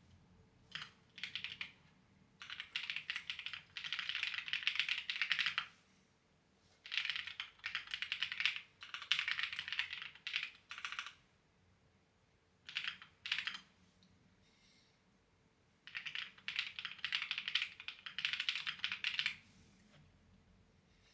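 Clacky computer keyboard typing in bursts of a few seconds, with short pauses between runs of keystrokes.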